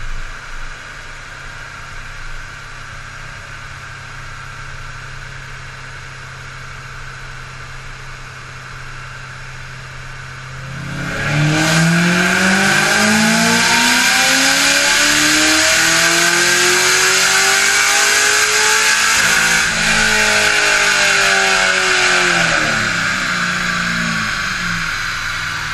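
Supercharged LS3 V8 of a 2010 Corvette Grand Sport, fitted with a Magnuson supercharger and Pfadt long-tube headers, idling on a chassis dyno and then, about eleven seconds in, making a dyno pull: the revs climb steadily for about eight seconds, then fall away over three seconds as it coasts down and drops back to idle near the end.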